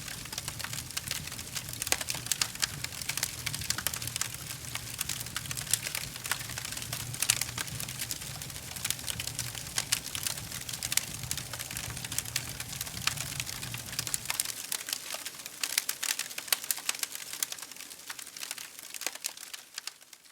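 Wood fire crackling in a fireplace: a dense run of sharp crackles over a soft hiss, with a low rumble underneath that cuts off abruptly about two-thirds of the way in. The crackling fades out at the very end.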